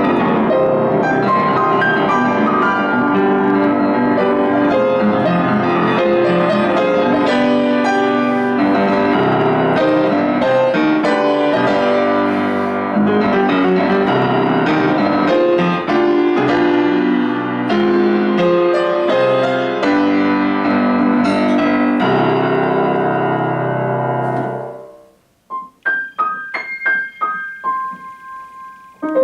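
Solo piano playing a dense, full-textured passage. About 25 seconds in it breaks off, and a few sparse, single high notes follow, struck one by one.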